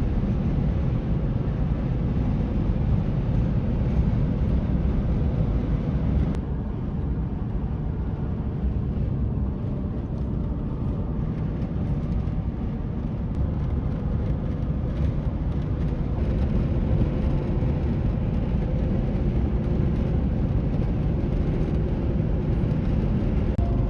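Steady low rumble of a vehicle under way, engine and road noise running evenly with no breaks.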